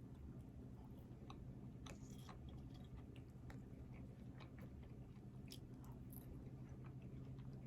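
Faint close-up chewing and mouth sounds of a person eating a burger and fries, with scattered soft clicks and smacks, over a steady low hum.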